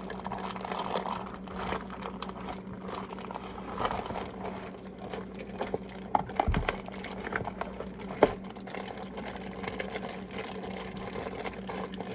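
Plastic bag crinkling and rustling as raw chicken drumsticks are worked around in a marinade, with scattered small clicks, a dull thump about six and a half seconds in and a sharp click near eight seconds. A steady low hum runs underneath.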